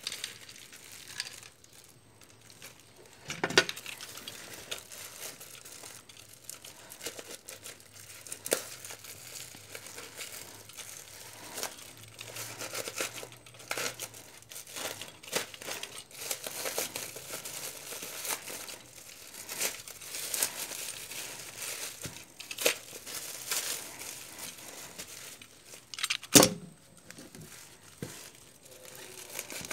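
Packaging of a 12 cm fan being handled and opened: irregular crinkling and tearing throughout, with two sharper knocks, one a few seconds in and one near the end.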